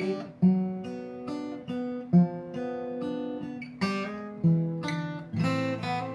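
Acoustic guitar playing an instrumental break in a country song: a run of picked notes and chords, each ringing out.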